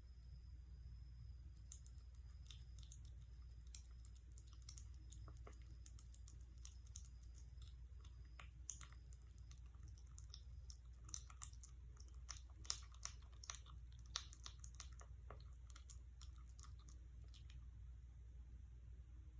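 A kitten chewing and eating, heard as faint, irregular small clicks and smacks, a few louder ones in the middle, over a low steady hum.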